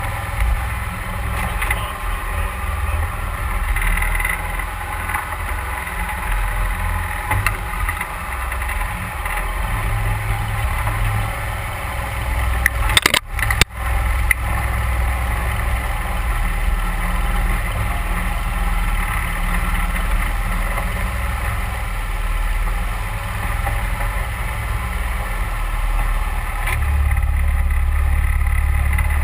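Mud Buddy 31 hp Hyperdrive surface-drive mud motor running steadily under way, pushing a duck boat up a creek. The drone is briefly broken about halfway through by a couple of sharp clicks.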